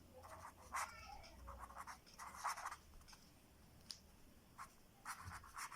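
Pen writing out an answer, a run of short faint scratching strokes with brief pauses.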